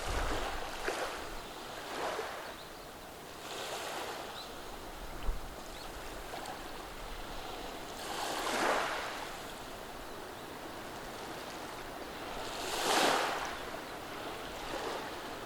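Small, gentle waves washing over a beach of rounded cobblestones, each wash a soft swelling rush that fades. There are several washes, the largest about eight and thirteen seconds in, over a constant low wash of water among the stones.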